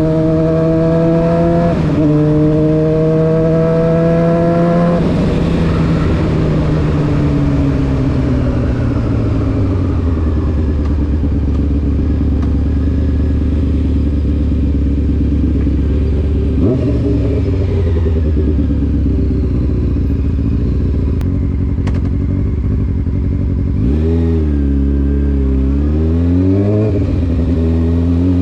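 Honda CBR600F4 inline-four engine through an SC Project aftermarket exhaust, heard from the bike. It accelerates with a gear change about two seconds in, rolls off and slows to a steady idle that lasts over ten seconds, then the revs rise and fall twice and climb again as the bike pulls away near the end.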